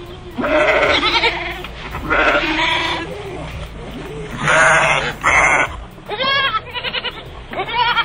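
Barbary sheep bleating loudly, about seven calls in a row: four longer bleats, then three shorter, quavering ones near the end.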